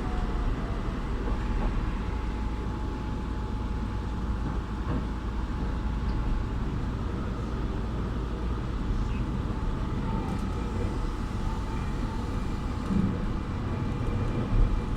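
Keihan Keishin Line train running between stops, heard from inside the car: a steady rumble of wheels and running gear.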